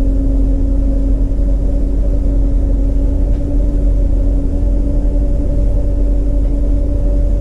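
A motor running steadily: a loud, even low rumble with a constant hum that does not change in pitch.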